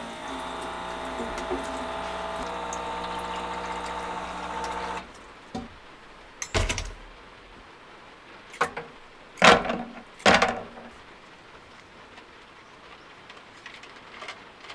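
A small electric motor runs with a steady whine for about five seconds, then stops, followed by a series of sharp knocks and clunks.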